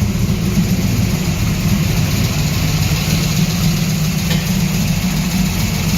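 355 cubic-inch stroker V8 in a Holden VN SS Commodore, idling steadily with a deep, even rumble.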